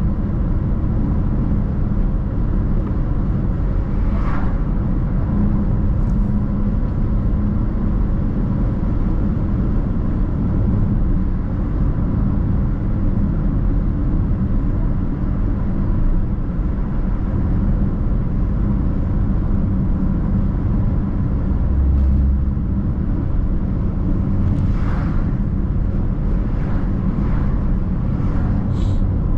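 Steady road and engine noise of a car driving, heard from inside, with a few brief higher-pitched sounds about four seconds in and again near the end.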